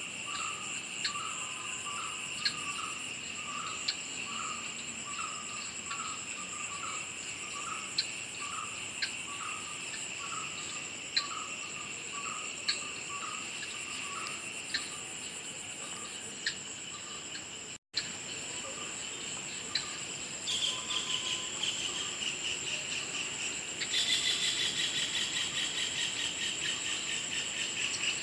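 Chorus of insects trilling steadily, with a repeated lower chirp slightly faster than once a second through the first part. After a brief cut about two-thirds of the way in, a pulsing trill joins, and a louder one comes in near the end.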